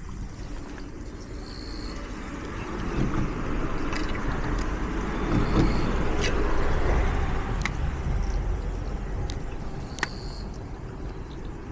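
A road vehicle passing by, its noise building over a few seconds to a peak around the middle and then fading away. A few sharp clicks sound over it.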